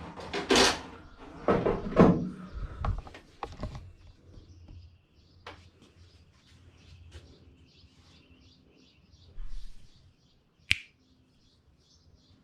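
A few loud knocks and clatters in the first few seconds, then small birds chirping in quick repeated short notes, with one sharp click near the end.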